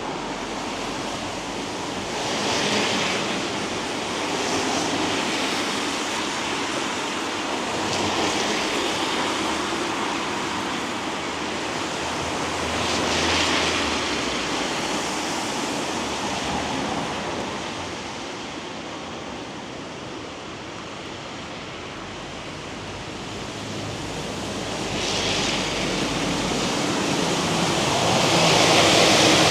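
Wet-street noise: a steady hiss of rain, with car tyres swishing past on the wet road about five times, each swelling and fading over a second or two.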